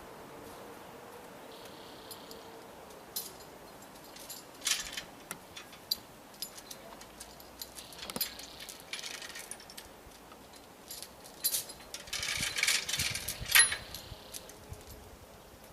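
Irregular metallic clinking and rattling, coming in three clusters with scattered single clicks between them.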